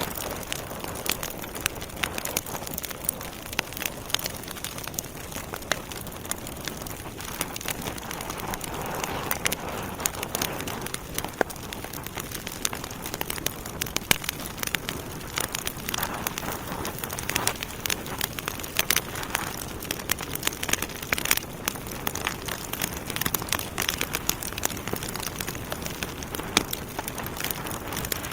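Logs burning in a fireplace: a steady hiss with frequent irregular sharp crackles and pops.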